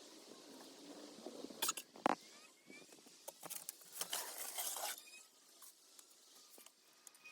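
Rustling and a few sharp knocks from grass and weeds being pulled and handled in garden work. The rustling is loudest for about a second near the middle.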